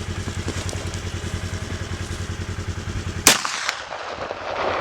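A low engine idling with an even pulse, then about three seconds in a single loud handgun shot that rings and echoes away.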